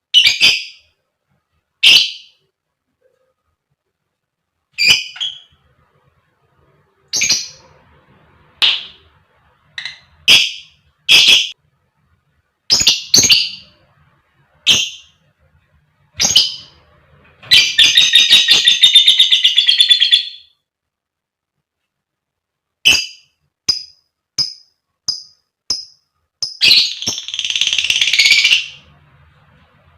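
A lovebird giving sharp, shrill single calls, broken midway and again near the end by long rapid chattering trills, the 'ngekek' chatter that lovebird keepers prize.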